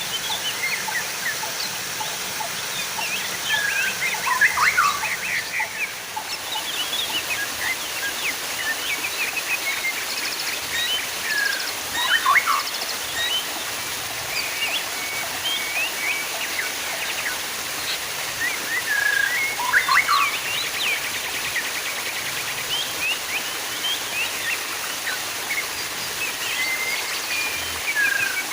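Steady running, splashing water with songbirds chirping and whistling over it. A louder burst of calls with falling whistles comes back about every eight seconds.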